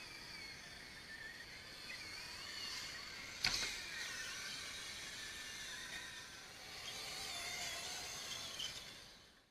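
Electric motors of a 1/10-scale RC excavator whining, their pitch wavering as the machine works, with a sharp click about three and a half seconds in.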